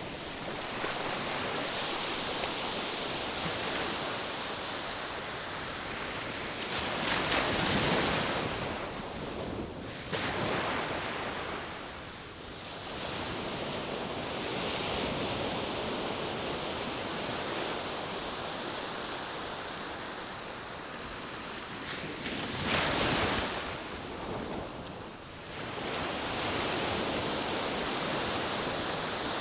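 Ocean surf washing in on the shore in a steady, even rush, with a louder breaking wave about seven seconds in and another near twenty-three seconds.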